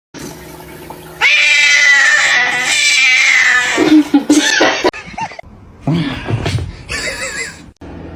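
A cat yowling loudly: one long drawn-out call of nearly three seconds, then several shorter, wavering yowls.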